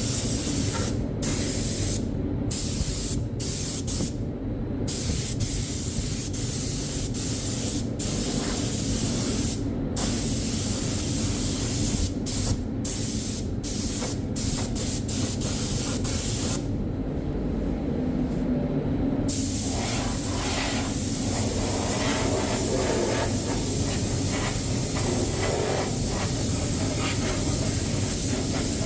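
Spray gun spraying Novol for Classic bodywork primer onto bare sandblasted metal: a steady hiss broken by many short stops as the trigger is let go, with a longer pause a little past halfway.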